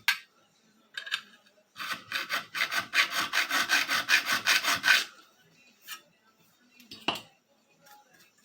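Triangle file rasping across the steel spine of a butcher knife in quick back-and-forth strokes, about five a second for some three seconds, cutting angled notches; a few single strokes before and after.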